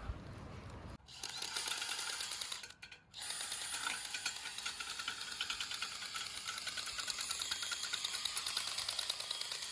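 A rotary chimney brush on rods, spun by a cordless drill, rattling fast against the inside of the flue. It starts about a second in and breaks off briefly just before three seconds.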